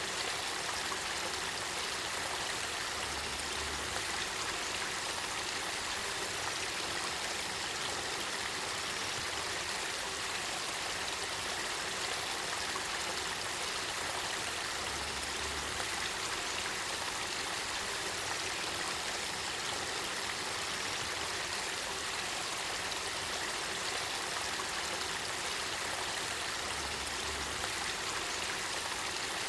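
Kakita River spring water flowing: a steady, even rush of moving water.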